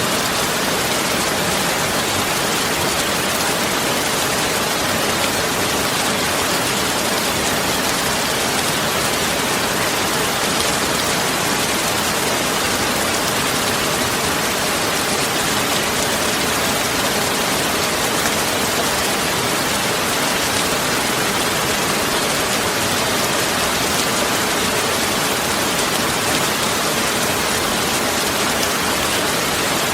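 Steady, even rain-like noise that hardly changes, with no distinct drops, knocks or tones standing out.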